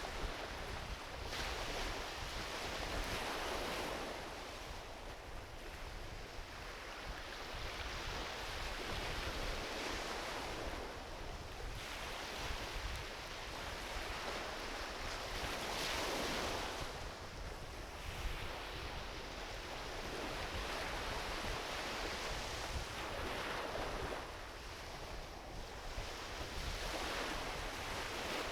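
Gentle ocean waves washing onto a beach, rising and falling in surges every few seconds over a steady low rumble.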